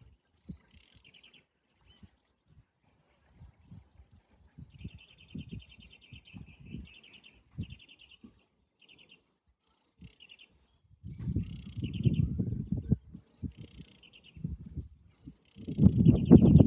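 Sedge warbler singing: a run of scratchy, chattering rattles mixed with sharp high notes, repeated phrase after phrase. Twice, about two-thirds of the way in and again at the end, a louder low rumble on the microphone covers it.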